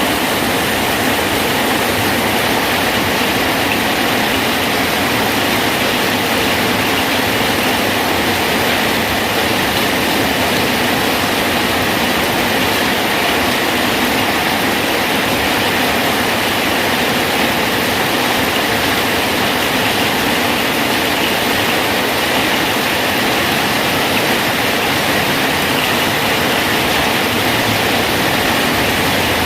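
Rain falling steadily on a bridge, an even hiss that does not change.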